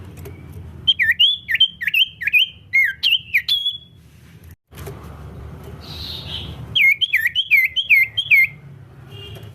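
Cipoh (iora) singing: two runs of quick, loud, swooping whistled notes, about three a second. The first run starts about a second in and the second near the end, with a short break between them. A low hum lies under the song throughout.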